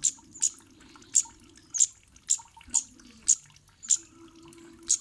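Cit kemade bird giving short, sharp, high-pitched 'cit' chip calls in an uneven series, about two a second, as used in lure recordings to draw a reply.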